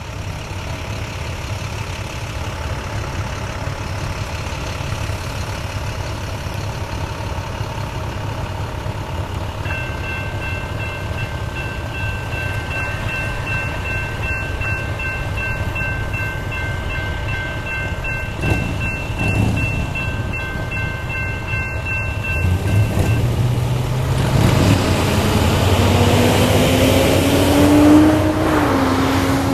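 CSX freight train on the rail line, a steady rumble that grows louder toward the end as it comes by. A steady high-pitched ringing tone sounds through the middle for about thirteen seconds. Lower sliding tones and a rise in noise follow in the last few seconds.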